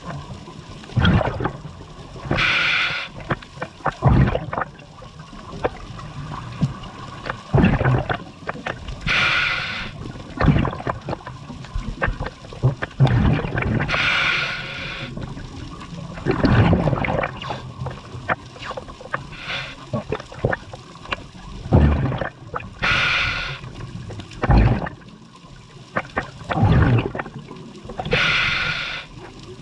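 Scuba diver breathing through a regulator underwater: a short hiss on each inhalation, five in all several seconds apart, with bubbling gurgles of the exhaled air between them.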